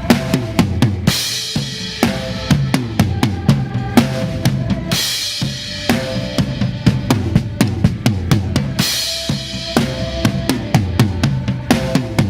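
Drum kit played along with a recorded worship song: fast kick, snare and rimshot strokes, with a cymbal crash about every four seconds. Other instruments of the song hold steady notes underneath.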